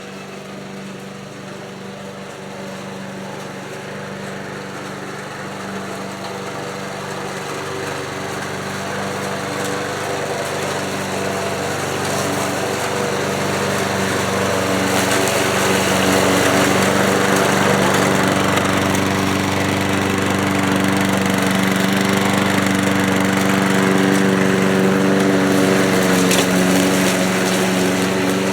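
1979 Ace Hardware push mower's small gasoline engine running steadily while mowing, its ignition points freshly cleaned. It grows louder over the first half, then holds steady.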